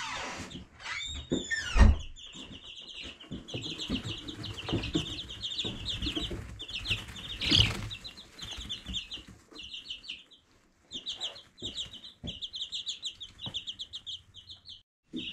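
A brood of Orpington chicks peeping, a rapid, continuous string of short high peeps. A few louder, longer calls and some low knocks come in the first two seconds, and the peeping drops out briefly about two-thirds of the way through.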